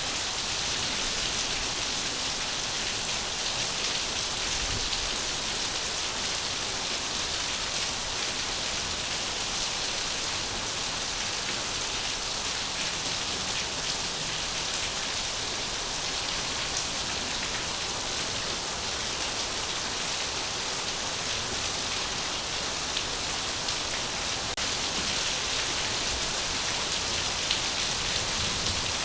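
Steady rain falling, an even hiss of many drops pattering on a surface, with no change in strength.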